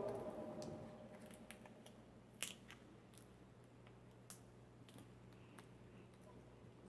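Faint scattered clicks and crackles of a blind-bag packet being handled as a child works at opening it, the loudest about two and a half and four and a half seconds in, over a low steady hum.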